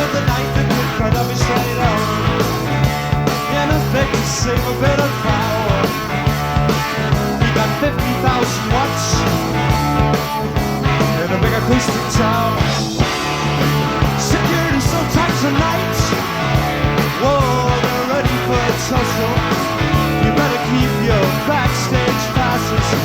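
Live rock band with electric guitars, electric bass and drums playing at full volume over a steady driving beat.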